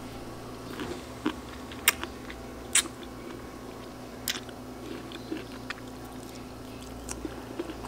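A person chewing asparagus close to the microphone, with a few sharp mouth clicks and smacks scattered through, over a faint steady hum.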